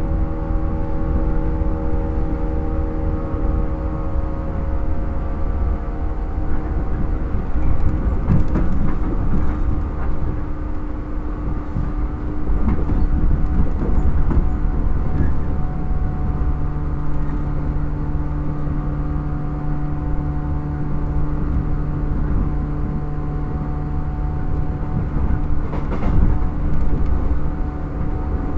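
Running sound inside a JR 115 series electric train's motor car: a steady hum of the MT54 traction motors and gears over the heavy rumble of wheels on rail. Brief knocks come about a third of the way in and again near the end.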